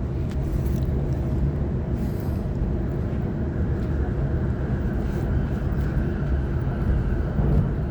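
Sydney Trains Waratah electric multiple unit running, heard from inside the carriage: a steady low rumble of wheels on track with a faint steady whine.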